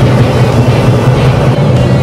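Twin-turbo 500-cubic-inch big-block Chevy V8 of a 1955 Nomad running at a steady idle, a loud low rumble.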